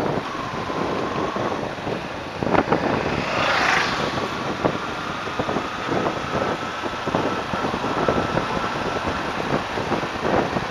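Wind buffeting the microphone on a motorcycle riding at speed, with engine and road noise underneath. There is a brief swoosh about three and a half seconds in, and a faint steady whine from about four seconds on.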